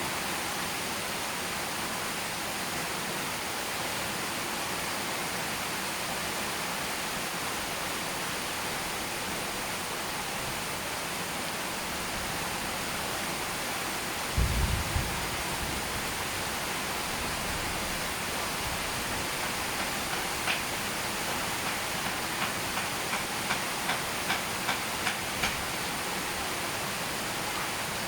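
Steady rain falling. About halfway there is a brief low thump, and near the end a run of about ten sharp ticks, a few a second.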